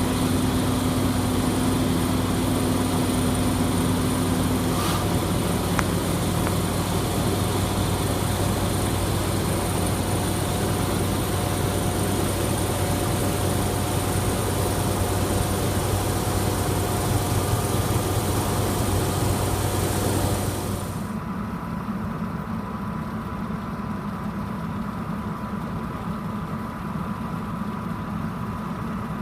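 Vehicle engine idling steadily with a low hum. About 21 seconds in, the hum and the higher hiss fall away and the sound gets quieter.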